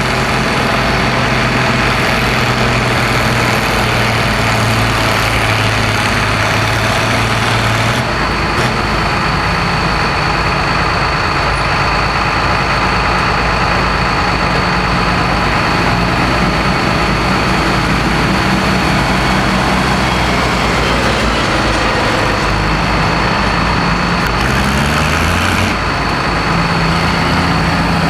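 Farmall 806 tractor engine running hard while pulling a stone boat. The engine note drops about eight seconds in and climbs again near the end.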